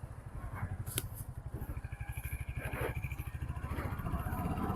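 Motorcycle engine running steadily under way, a fast low pulsing, with a brief click about a second in.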